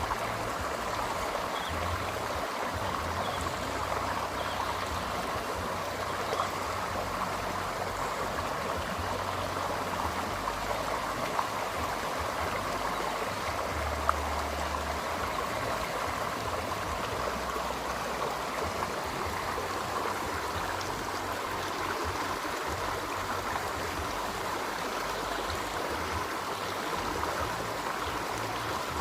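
Running water rushing steadily, with low rumbles that come and go underneath.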